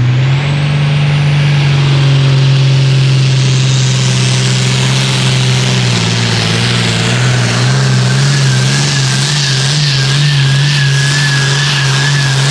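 Pulling tractor's diesel engine running loud at a high, steady speed, its pitch dipping briefly about six seconds in, with a thin high whistle coming in partway through.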